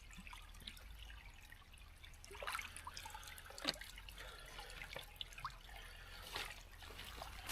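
Campfire crackling faintly, with scattered small pops and brief hisses from the burning wood.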